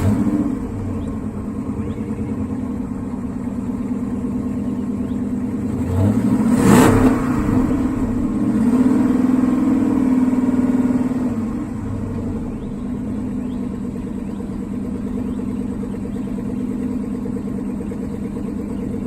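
Chrysler 300's 5.7 HEMI V8 idling just after a cold start, a steady low rumble through the stock exhaust. It surges louder briefly about seven seconds in, then holds a raised idle for a few seconds before settling.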